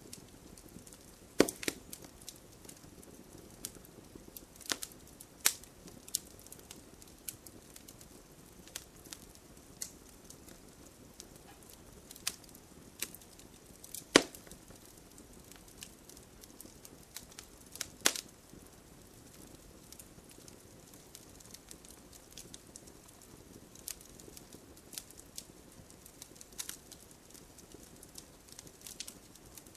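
Wood fire crackling: a soft steady hiss with scattered sharp pops and snaps, the loudest about a second and a half, five seconds, fourteen seconds and eighteen seconds in.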